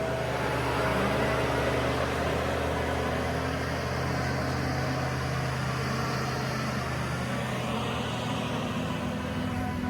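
New Holland C362 skid steer's diesel engine running steadily.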